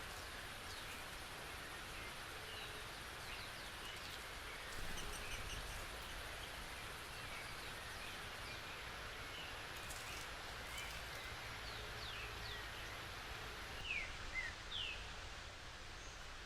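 Forest ambience through a trail camera's microphone: a steady hiss with scattered short, falling bird chirps, a few louder ones near the end.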